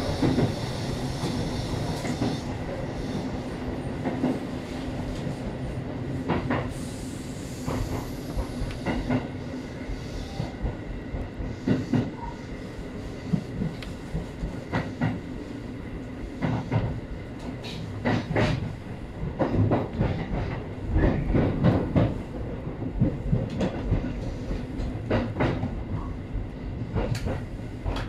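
Tobu 850 series electric train running, heard from inside the car: a steady rumble with a low hum, broken by sharp wheel clacks over rail joints at irregular intervals, coming in bunches in the second half.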